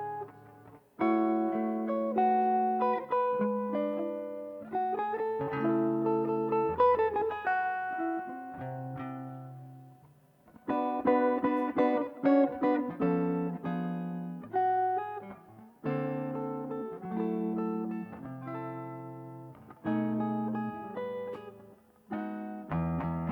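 Guitar playing a slow chord melody, each plucked chord ringing out and fading, in phrases with short pauses between them.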